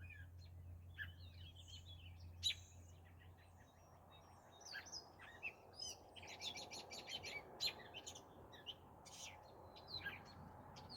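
Several wild birds chirping and singing, with a quick run of repeated notes about six seconds in.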